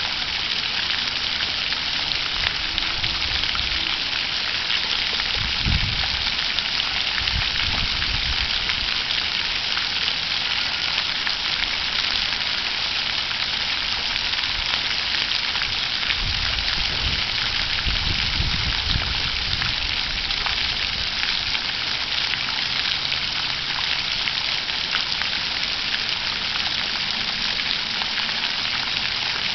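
Water fountain splashing in a steady hiss, with a low rumble twice, about six seconds in and again around seventeen to nineteen seconds in.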